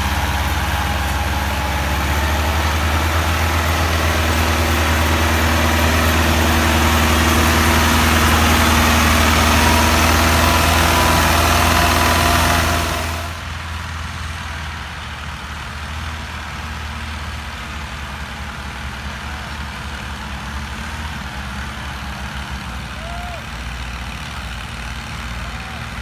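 Tractor engine running loud and steady, then dropping suddenly to a quieter idle about thirteen seconds in.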